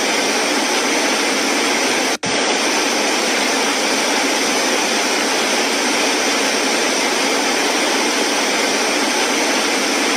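Waterfall roaring: a loud, steady rush of falling water, broken by an instant's dropout about two seconds in.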